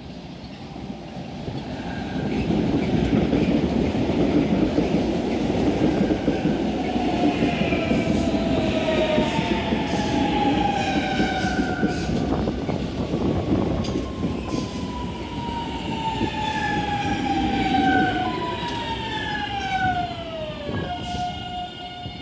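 Electric multiple-unit train coming in, its rumble building over the first two seconds. A stack of electric traction whines falls slowly in pitch as the train slows, settling on one steady tone near the end, with scattered clicks from the wheels on the rails.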